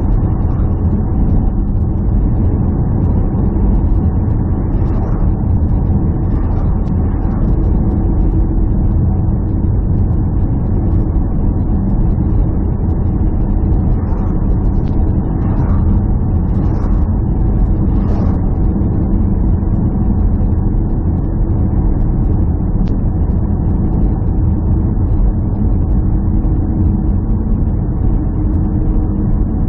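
A steady, low engine drone that holds the same pitch and loudness throughout.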